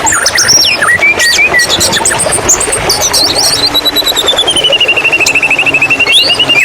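White-rumped shama singing: quick varied whistles and sweeping notes, then a long rapid trill that slowly falls in pitch through the second half, over a steady rush of flowing water.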